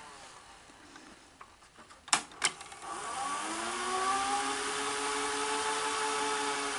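Sony SL-HFR30 Betamax VCR: two sharp mechanical clicks, then the reel motor spins up with a rising whir and runs on steadily, winding the tape at high speed.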